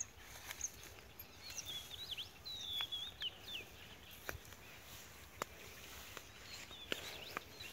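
Faint birdsong: a cluster of short, high chirps and whistles in the first half, over a low outdoor hiss. A few sharp clicks are also heard later on.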